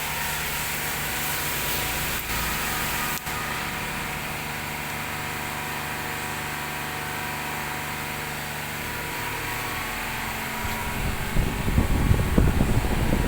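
Diesel car engine idling steadily. About ten seconds in, louder uneven low rumbling joins it.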